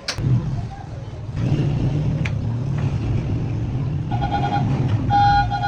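Vehicle engine running close by as a steady low rumble that grows louder about a second and a half in, with a car horn honking twice near the end.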